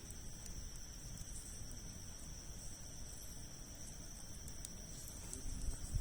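Wood campfire burning with a few faint, scattered crackles over a low rumble, under a steady high-pitched whine.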